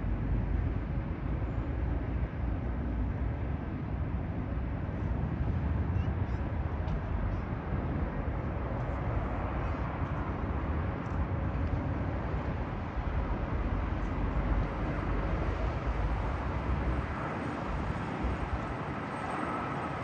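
Lufthansa Airbus A319 jet noise: a steady rush of engine and airflow sound over a heavy low rumble, the rumble falling away about three-quarters of the way through.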